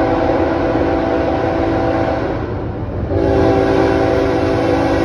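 Locomotive air horn sounding a multi-tone chord: one blast fades out about two seconds in, and a second starts about three seconds in and holds, over the low rumble of the train.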